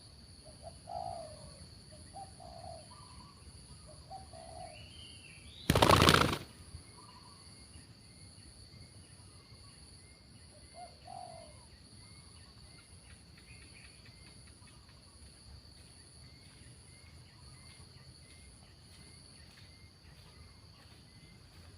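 Spotted doves cooing in short low phrases, mostly in the first few seconds and once more midway, under a steady high tone. About six seconds in there is one loud half-second rush of noise, and faint small chirps come and go.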